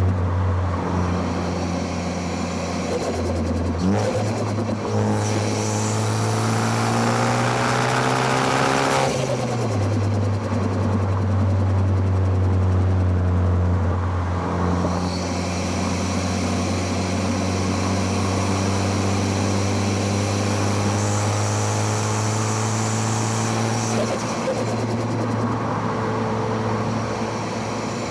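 Car engine under way, heard through its intake and exhaust: the pitch climbs for about five seconds as it accelerates, drops sharply about nine seconds in, then holds steady.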